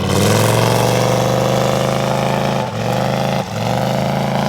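Vehicle engine held at high revs, with two brief drops in revs after about two and a half seconds, each climbing straight back up.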